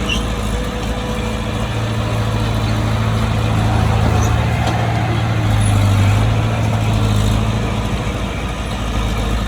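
Bulldozer's diesel engine running steadily under work, with a deep hum that swells a little around the middle.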